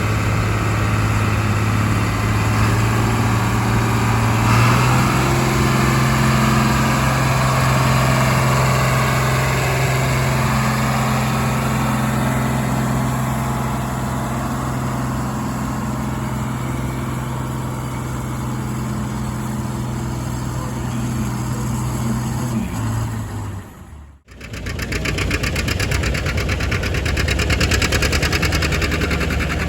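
An engine running steadily at idle, its pitch stepping up slightly about five seconds in. Near the end the sound cuts off abruptly and a different engine with a fast, even beat takes over.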